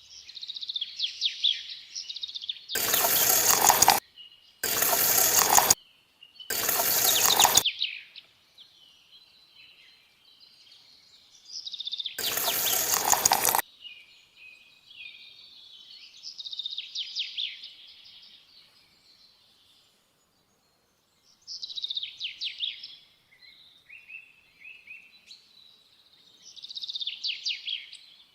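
Birds chirping and singing throughout, interrupted four times by loud, sudden bursts of noise lasting about a second each, the last near the middle.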